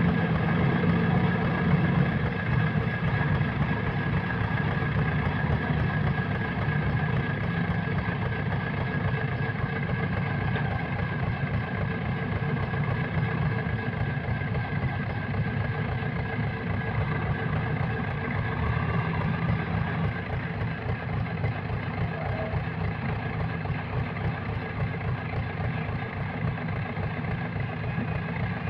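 Heavy diesel engine running steadily, easing slightly in level about twenty seconds in.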